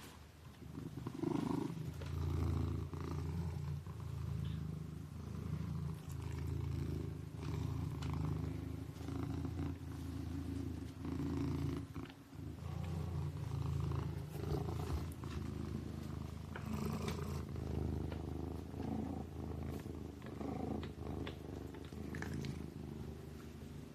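Kitten purring steadily. The low purr swells and fades with each breath, every two seconds or so.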